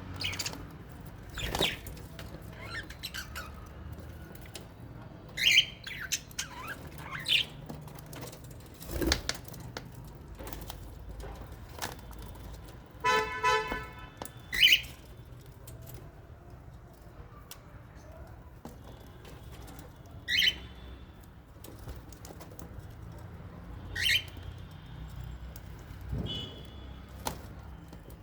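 Lovebirds and budgies calling: loud, sharp, shrill chirps that drop in pitch, spaced every few seconds, with one harsher buzzing call about thirteen seconds in and fainter chatter between. A low steady hum runs underneath.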